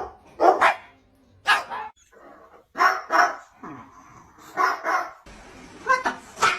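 A dog barking repeatedly in short, separate barks, some in quick pairs.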